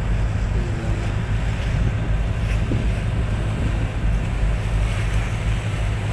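Wind buffeting the microphone over sea waves, with a steady low rumble underneath.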